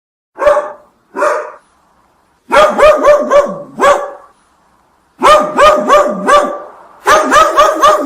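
A dog barking: two single barks, then three quick runs of several barks each.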